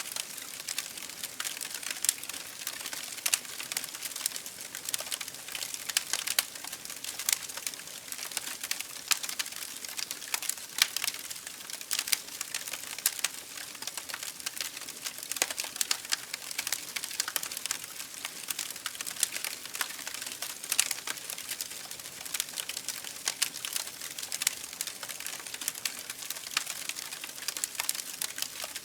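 Campfire burning, with wood crackling and popping in a dense, irregular stream of sharp snaps over a steady hiss.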